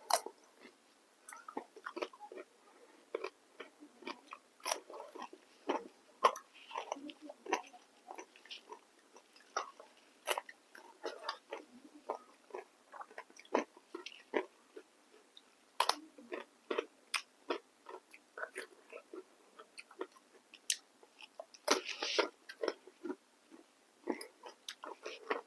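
Close-up eating sounds of a person chewing and biting momo dumplings and crunchy cucumber slices: many short, irregular mouth clicks and smacks, with a louder burst near the end.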